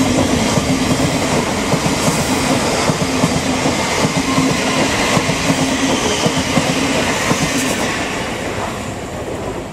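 Thameslink Class 700 electric multiple unit passing at speed: a loud, steady rush of wheel and rail noise with a humming tone and rapid clicks from the wheels. The sound fades away near the end as the last carriage goes by.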